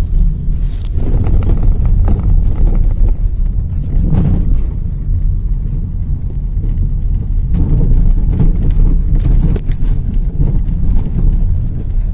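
Mazda 2 being driven: a loud, steady low rumble of road and wind noise, with scattered knocks. This is the knocking from under the pedals, traced to a worn bushing on the steering rack.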